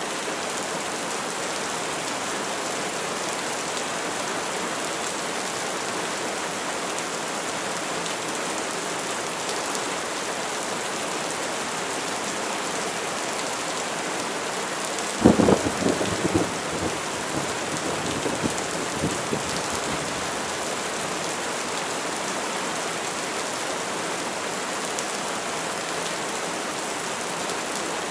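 Steady heavy rain falling, with a sharp thunderclap about halfway through that crackles and rumbles off over a few seconds.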